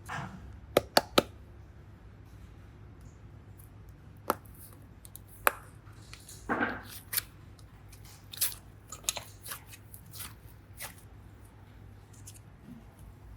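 Hands working modelling clay and slime with small tools: scattered sharp clicks and taps, three in quick succession about a second in and more through the middle, with a short squish about six and a half seconds in.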